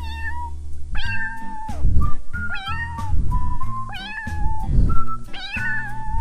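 A domestic cat meowing over and over in short pitched calls, over background music with a steady beat.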